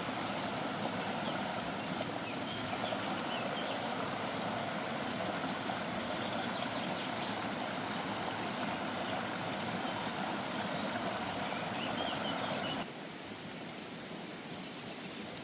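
Steady rushing outdoor ambience with a few faint bird chirps. It cuts abruptly to a quieter, duller ambience near the end.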